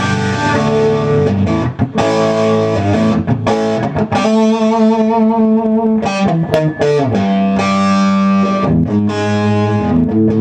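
1975 Gibson Les Paul Custom electric guitar with a maple fretboard, played through an amp: ringing chords and held notes, with wavering vibrato and string bends around the middle.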